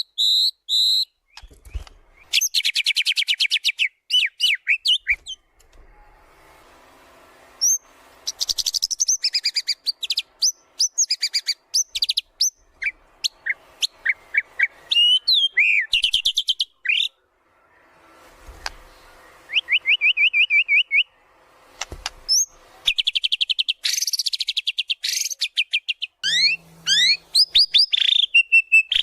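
White-rumped shama (murai batu) singing hard. Its varied song runs in loud phrases of rapid trills, fast repeated notes and sharp sweeping whistles, with short pauses between phrases.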